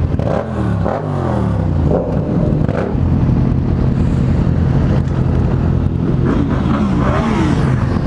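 Motorcycle engines revving, their pitch rising and falling during the first two seconds, then settling into a steady drone, with another rev rising and falling near the end.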